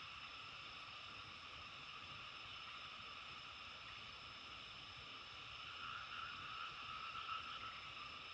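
Faint, steady natural outdoor ambience at dawn: a continuous chorus held in a few pitch bands, growing a little louder about six seconds in.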